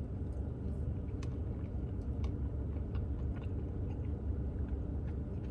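Someone chewing a mouthful of soft-serve Blizzard with truffle pieces, with small scattered mouth clicks over a steady low rumble.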